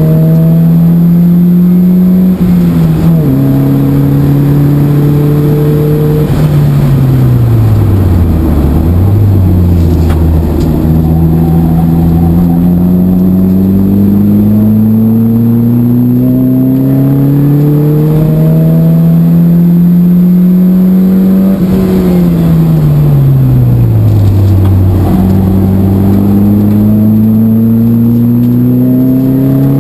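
Opel Speedster's four-cylinder engine heard from inside the cabin. The note climbs under hard acceleration and steps down with an upshift about three seconds in. It then falls away twice as the car slows, around eight seconds and again around twenty-three seconds, with downshift blips, and each time climbs again in a long pull.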